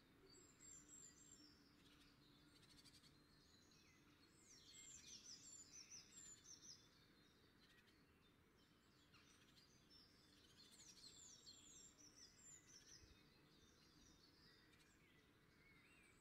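Faint outdoor ambience with small birds chirping in quick, falling notes, in two spells about four and ten seconds in.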